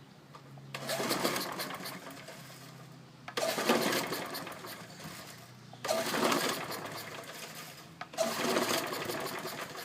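Briggs & Stratton lawn mower engine being pull-started four times. Each pull brings a couple of seconds of rapid mechanical clatter that starts sharply and dies away, without the engine settling into a run.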